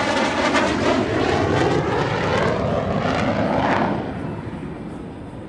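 Lockheed Martin F-35 fighter's jet engine, a loud rushing roar as the jet passes by, its pitch sweeping as it goes past. The noise falls away sharply about four seconds in as it recedes.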